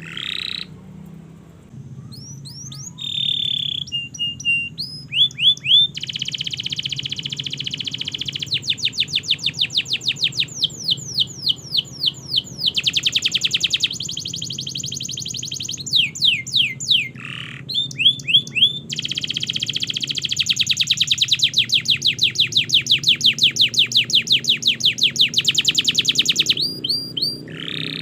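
Domestic canary singing a long song of fast trills and rapid rolls of repeated notes, broken by brief pauses; the longest roll runs about seven seconds late on.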